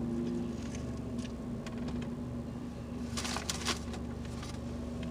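A man biting into and chewing a burger stuffed with breaded chicken nuggets, with a short run of louder crunchy chews a little past halfway. A steady low hum runs underneath.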